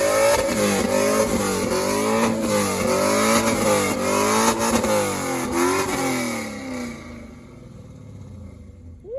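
Muscle car engine revved hard over and over, its pitch rising and falling about once a second, with a hiss across the top; the sound fades away about seven seconds in.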